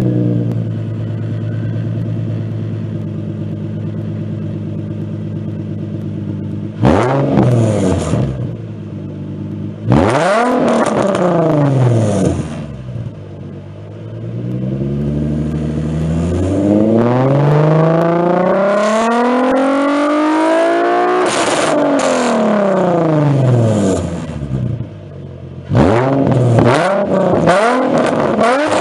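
Nissan 350Z's 3.5-litre V6 through an aftermarket exhaust, idling steadily, then blipped twice, revved slowly up to high rpm and let fall back, and near the end revved in quick repeated blips.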